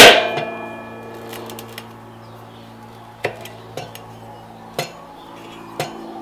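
A tire iron clangs hard against metal right at the start and rings for about a second, followed by four lighter metal clinks as the tire work goes on, over a steady low hum.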